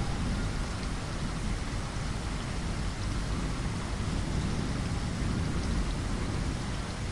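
Steady rain falling against a window glass, with a low rumble of thunder underneath.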